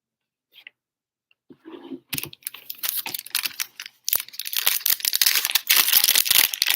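Foil trading-card pack wrapper being torn open and crinkled. It starts about two seconds in and goes on as a dense crackle.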